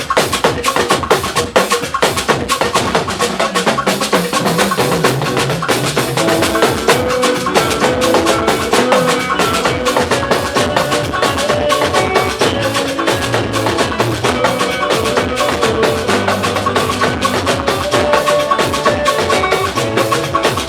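Live gospel band playing an instrumental stretch, driven by steady, fast percussion, with bass and keyboard or guitar lines moving in short melodic steps.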